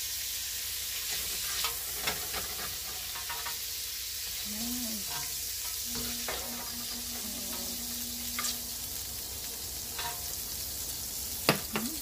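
Shrimp sizzling in hot oil in a wok, with a plastic spatula scraping and clicking against the pan as the shrimp, now cooked pink, are scooped out into a bowl. A few sharp knocks near the end are the loudest sounds.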